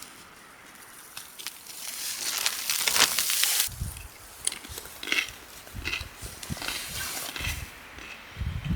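Footsteps crunching through snow, irregular heavy steps with low thuds, after a few seconds of hissing noise like a gust of wind or brushing snow.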